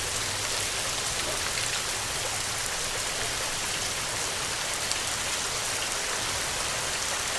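Steady rainfall: an even, dense hiss of raindrops with scattered small drop ticks, no thunder and no change in intensity.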